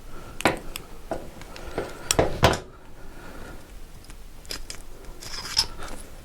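Sharp metallic clicks and knocks from tools and small engine parts being handled while a motorcycle engine is stripped down, several in quick succession and then a few more near the end.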